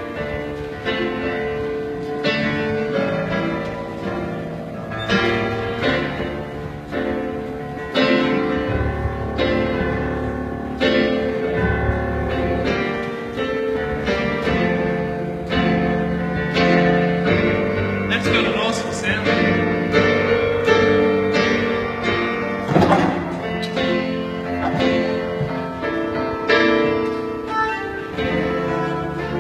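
Live instrumental jam in a tunnel: a cello played together with a busker's plucked-string accompaniment, notes sounding in a steady flow.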